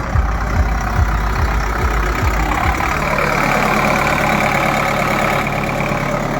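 Preet 6049 DI tractor's diesel engine idling with an even low thumping, then picking up speed about three seconds in and running steadily at the higher speed.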